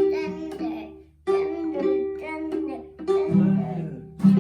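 Guitar plucked and strummed in short ringing phrases, breaking off briefly about a second in before starting again.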